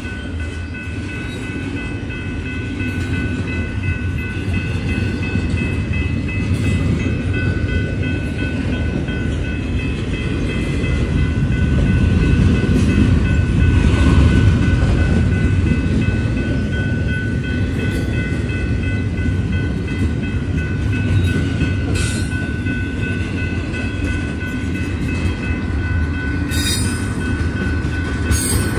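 Cars of a long intermodal container train rolling past with a steady rumble of wheels on rail, swelling around the middle. A steady high whine is held over it throughout, and a few sharp clanks come near the end.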